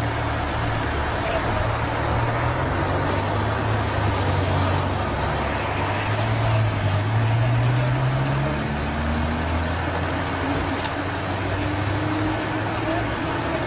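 An engine running over a steady, noisy roar, its pitch rising gradually from about four seconds in until near the end.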